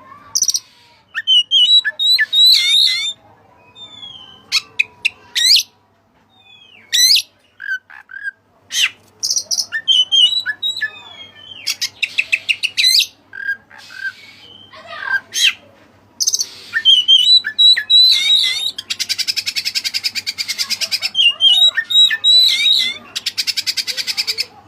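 White-breasted kacer (Oriental magpie-robin) singing loudly: a varied run of whistled phrases and sharp chirps, broken by fast rattling trills around the middle and again through the last third.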